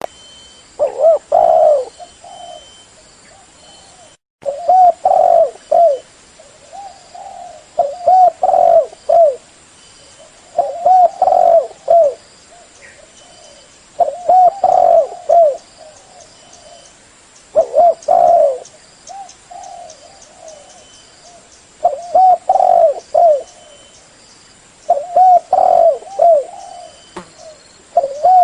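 Spotted dove (derkuku) cooing: a loud phrase of three or four short coos repeated about every three to four seconds, with fainter coos in between.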